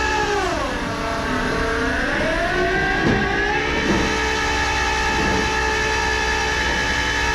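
Truck engine running with a steady pitched drone. Its pitch drops about half a second in and climbs back over the next few seconds, as when the engine slows and then picks up again.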